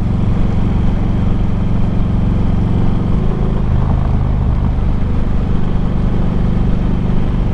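Harley-Davidson Street Glide's Screaming Eagle 110 V-twin running on the road through DNA megaphone slip-on pipes, with a steady rushing noise over it. The engine note changes about three seconds in, then holds steady again.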